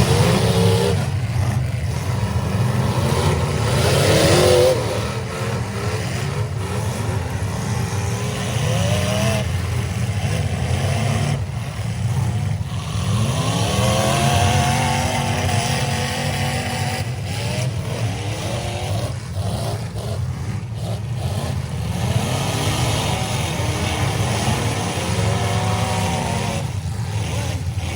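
Several demolition derby cars' engines revving up and down together over a steady low rumble, their pitches rising and falling again and again as the cars accelerate and back up.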